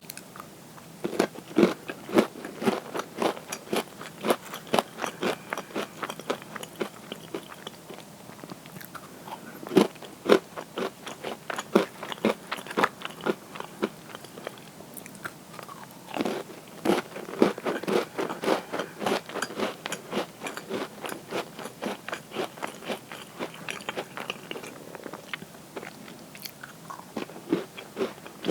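Close-miked crunchy cookies being bitten and chewed. There are three bouts, each opening with a loud crisp bite and going on into a fast run of crunching chews that fades.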